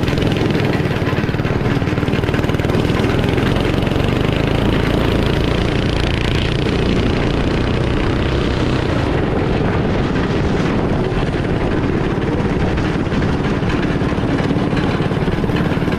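Small motor-vehicle engine running steadily while the vehicle is ridden, with wind and road noise over it.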